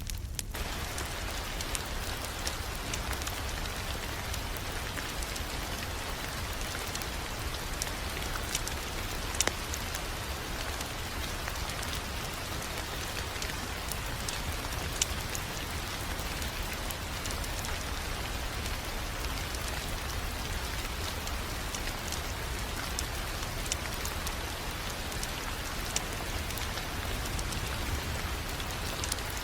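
Steady rain-like patter and hiss, with a wood fire's scattered crackles and pops over it and a low rumble beneath.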